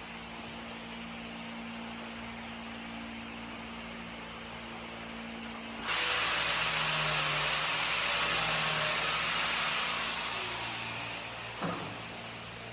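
A steady hum, then a loud hiss that starts suddenly about six seconds in, holds for about four seconds and fades away, like a jet of compressed air or a spray. A short click comes near the end.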